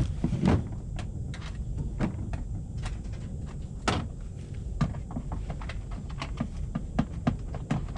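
Irregular clicks and small knocks of a hand tool and the plastic undertray as the last fastener holding the undertray under a Subaru WRX STI is undone, with two louder knocks about half a second and four seconds in, over a steady low rumble.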